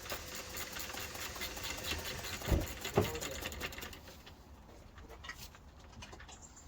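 Rapid clicking of a ratchet spanner working a bolt, with two sharp knocks about two and a half and three seconds in. The clicking thins out and gets quieter after about four seconds.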